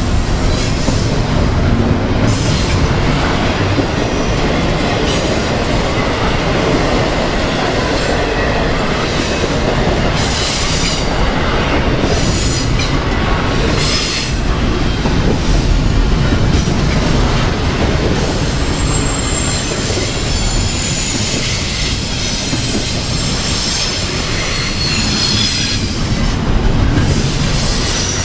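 Double-stack intermodal well cars of a freight train rolling past close by: a steady, loud rumble of steel wheels on rail. High squealing tones from the wheels come and go, most of them in the second half.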